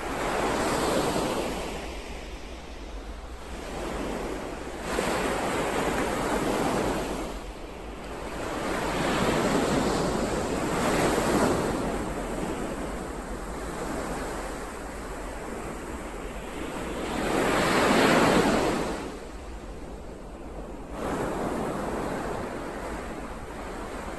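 Ocean waves breaking and washing on the shore, the noise swelling and falling away in surges every few seconds; the loudest wave breaks about three-quarters of the way through.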